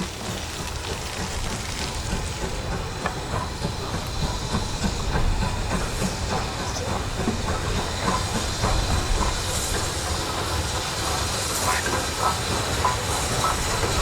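Steam train moving along the track: a steady low rumble and steam hiss, with light clicks of wheels over the rails.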